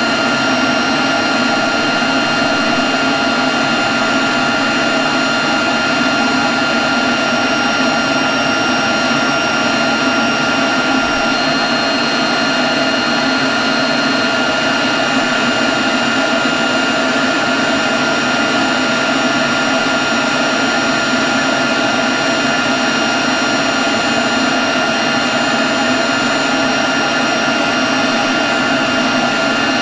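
Leaf blower running steadily at constant speed: a loud rush of air with a steady high whine over it.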